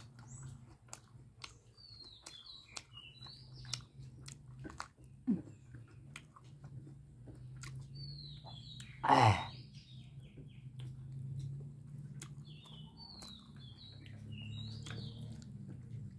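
Close-up chewing and small mouth clicks of someone eating rice and curry by hand, with small birds chirping in short runs in the background. About nine seconds in, one loud short sound drops steeply in pitch.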